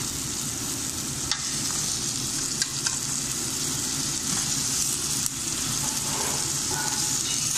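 Meat, onion, tomato and freshly added carrots sizzling as they fry in a pot and are stirred, a steady hiss with a few sharp clicks.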